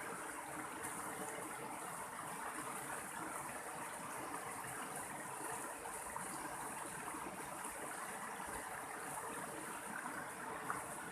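Mountain stream flowing: a steady, even rush of water running over rocks.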